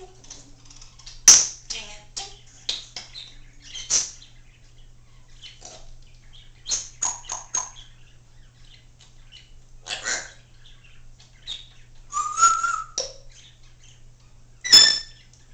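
Congo African grey parrot making a string of sharp clicks, short chirps and whistles, with a brief whistle about three-quarters of the way through and loud clicks about a second in and near the end.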